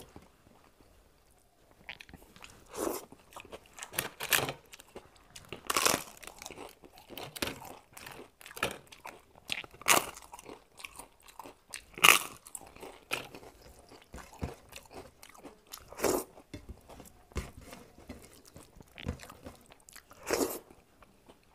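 A person chewing and crunching food close to the microphone, with sharp, uneven crunches every second or so from bites of a crisp fried papad eaten with rice and dal.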